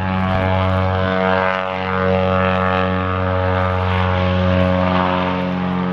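Blimp's propeller engines running steadily, a loud, even drone with a low hum.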